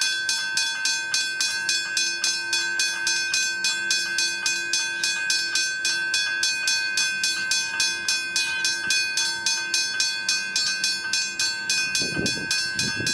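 Westinghouse hybrid level crossing bell ringing continuously with rapid, even strikes at about four to five a second, over a steady ringing tone.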